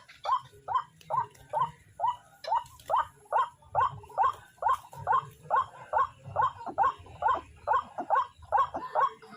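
White-breasted waterhen calling: a long, even series of short, harsh, nasal 'ruak' notes, about two to three a second.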